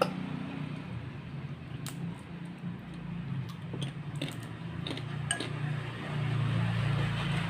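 Cutlery clinking lightly against a noodle bowl a handful of times, over a steady low hum.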